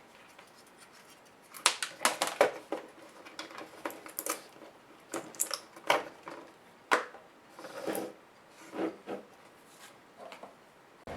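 Irregular clicks, taps and short scrapes of plastic and metal laptop parts being handled and pried apart during an HP DV8000 teardown. They begin about a second and a half in.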